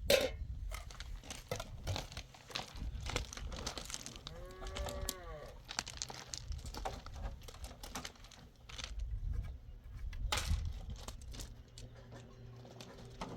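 Crackling and rustling of dry grass and branches being handled, many short crackles in a row. One short livestock call, rising then falling, sounds about four and a half seconds in.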